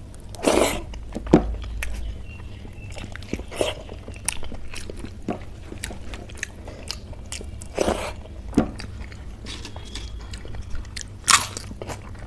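A person chewing a handful of rice and kadhi eaten by hand, close to the microphone, with scattered small mouth clicks and a few louder bites or crunches: about half a second in, around eight seconds in, and the loudest near eleven seconds in.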